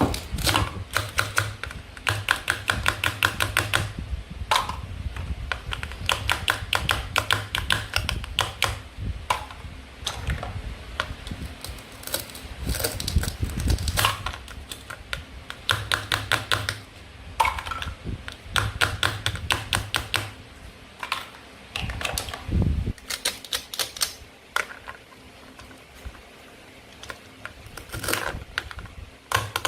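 Play-food toys being handled and cut with a toy knife: runs of rapid small clicks and taps, several a second, with brief pauses between runs.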